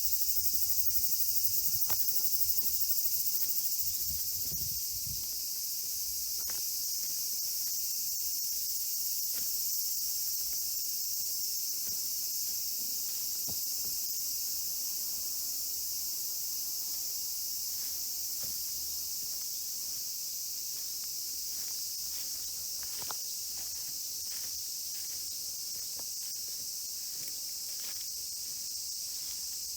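Steady, high-pitched chorus of insects, with scattered faint clicks and rustles beneath it.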